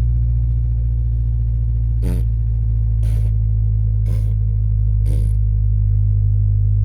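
Ford Ranger engine idling steadily just after a cold start in freezing weather. Four short hissing strokes come about once a second in the middle.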